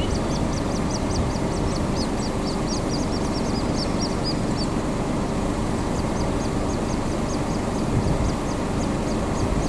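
Little grebes calling: two runs of rapid, high, short peeping notes, the first lasting about four seconds and the second starting about six seconds in, over a steady low rumble.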